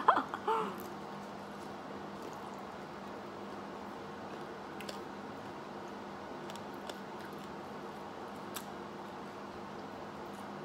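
Quiet eating: faint chewing and a few soft clicks as cooked rice is eaten with the fingers, over a steady faint hum.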